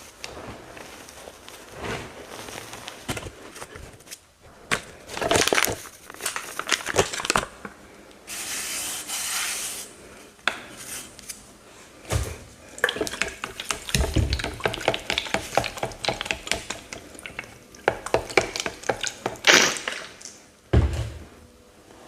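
Dried teal paste blocks and chunks being crunched and crumbled by hand: dense clusters of crisp crackles and snaps, with a steady hiss for about a second and a half near the middle.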